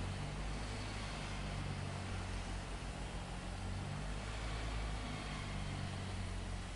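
Heavy machinery engine running steadily: a low, unchanging drone under an even hiss.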